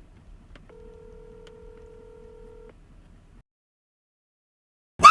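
A steady electronic telephone tone lasting about two seconds, with small clicks at its start and end, heard over a phone line after the call goes quiet. The sound then drops to dead silence, and a loud sound with a falling pitch bursts in right at the end.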